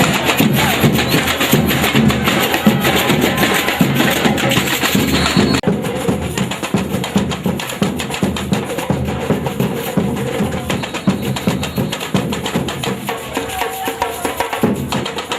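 Batucada drum ensemble playing a fast samba rhythm, dense and driving; the sound changes abruptly about a third of the way in and again near the end, as one recording gives way to another.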